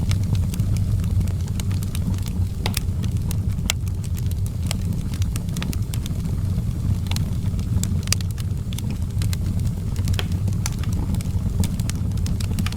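Outdoor wood fire burning: a steady low rumble of flames with irregular sharp crackles and pops from the burning wood.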